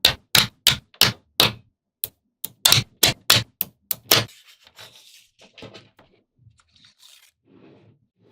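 Small magnetic balls snapping together one after another, a run of about a dozen sharp clicks at roughly three a second, then fainter scattered clicks and rubbing after about four seconds.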